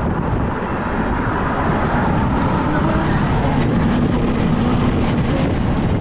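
Steady rumble of a car driving: engine and road noise.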